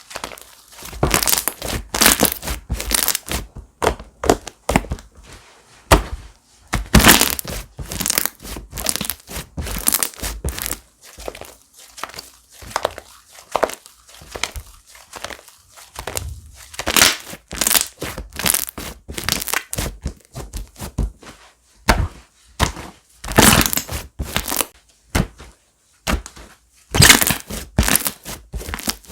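Slime being squished, pressed and stretched by hand, giving irregular clusters of sharp crackles and pops with short pauses between them.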